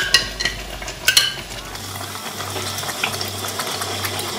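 A metal spoon clinks against a glass bowl a few times in the first second or so as thick tomato paste is scraped into hot oil, which sizzles steadily. After that a spatula stirs the frying tomato stew base in the pot over the continuing sizzle.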